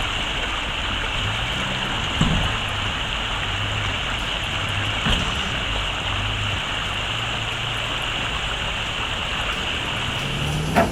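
Toyota Land Cruiser's engine running at low revs as it crawls over rough ground, its low drone rising and falling slightly, under a steady hiss.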